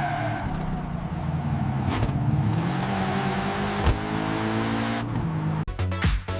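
Car engine running and revving, its pitch rising slightly in the second half, before electronic dance music with a beat cuts in about a second before the end.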